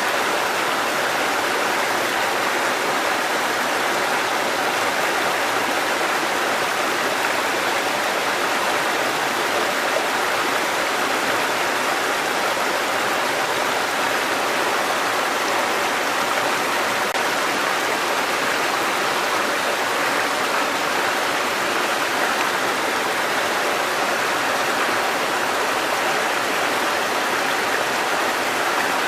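Mountain stream water cascading over rocks: a steady, even rush of falling water.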